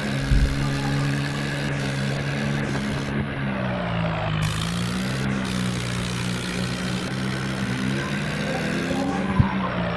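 Tractor engine running steadily, its pitch dipping a little and rising again a few seconds in. A brief low thump near the start.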